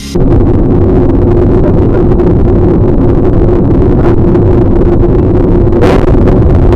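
Loud, steady vehicle drone with road noise as picked up by a car's dashcam microphone, with a few short sharp clicks near the end.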